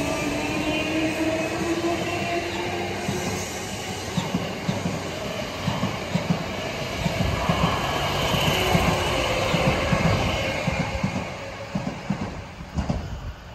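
Hankyu electric train passing close by: a motor whine rising slightly in pitch over the first few seconds, then a rhythmic clatter of wheels over rail joints that stops about 13 seconds in as the last car goes by.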